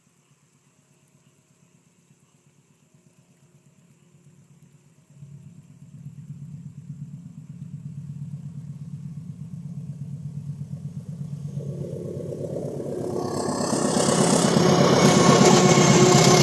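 A CC 203 diesel-electric locomotive pulling a train away. Its engine rumble starts suddenly about five seconds in and grows steadily louder, broadening into a loud, full roar over the last few seconds as the train draws closer.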